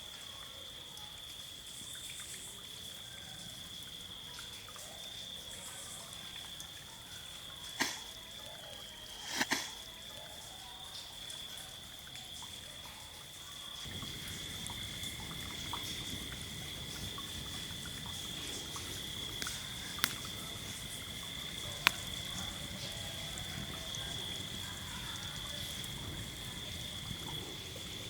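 A steady, high-pitched chorus of night insects, with a second, lower steady note joining about halfway through. Four sharp pops from the campfire break through, two close together early on and two more later.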